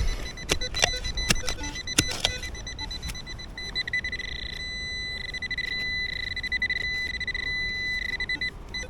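A few sharp knocks of a shovel digging into hard ground, then a metal detector's high electronic target tone sounding in rapidly pulsing stretches from about three and a half seconds in, which signals metal close by in the hole.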